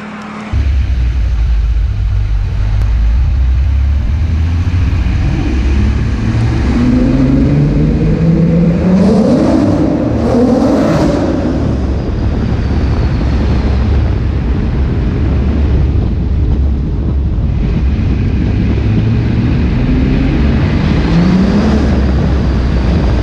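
Volkswagen VR6 narrow-angle V6 engine in a car under hard acceleration, with a heavy low rumble throughout. The engine note rises over several seconds in the middle, drops, and climbs again near the end. It starts suddenly about half a second in.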